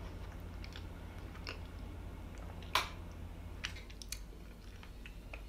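Someone chewing a mouthful of soft cupcake, with faint wet mouth clicks and one sharper click almost three seconds in.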